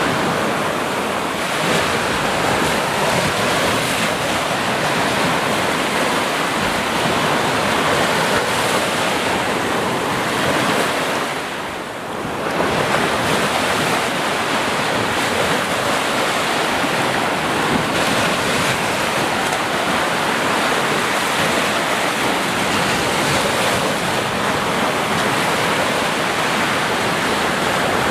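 Sea waves, a steady rush of surf with a brief lull about twelve seconds in.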